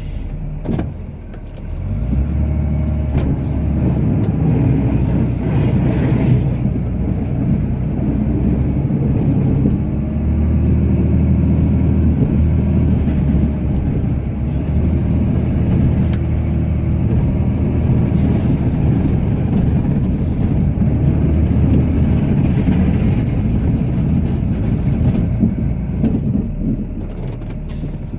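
Ram pickup's Cummins turbo-diesel engine working under load while plowing snow. It pulls harder about two seconds in, holds steady, and eases a little near the end.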